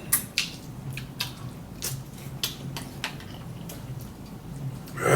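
Close-up eating sounds: wet chewing and mouth noises with irregular short clicks of cutlery against dishes, then a louder breathy noise near the end.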